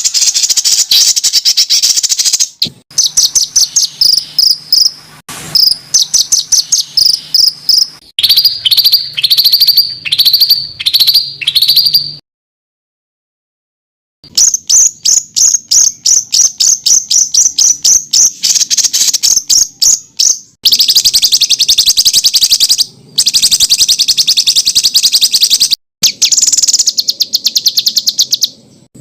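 Songbirds singing rapid-fire 'tembakan' phrases: fast runs of sharp, high repeated notes, some slurring downward, and dense dry rattling trills. The song stops for about two seconds of silence a little before the middle.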